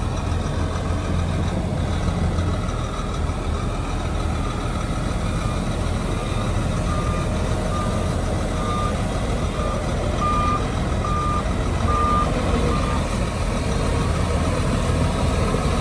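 Heavy diesel earthmoving machinery running steadily with a low rumble. About halfway through, a reversing alarm starts beeping in a string of short beeps that grow louder for several seconds, then stops.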